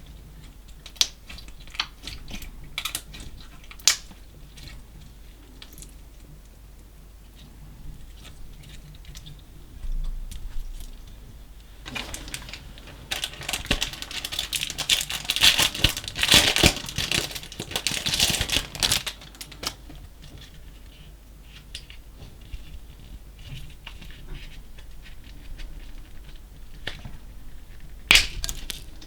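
Slime mixed with small coloured particles being worked by hand, giving scattered sharp clicks and pops. Midway there is a longer stretch of dense crackling as the slime is squeezed and stretched hard.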